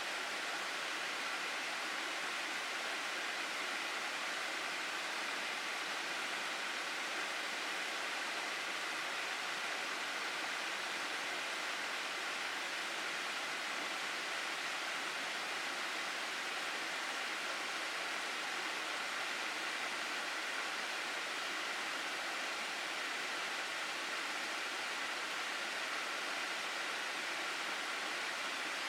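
Flowing stream water rushing over rocks, a steady even rush with no breaks.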